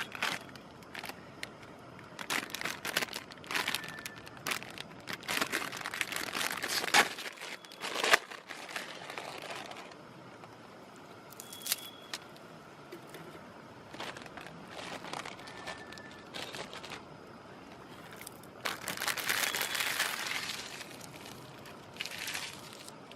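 Plastic food packaging being handled, crinkling and rustling in irregular bursts, with a few light clicks and knocks.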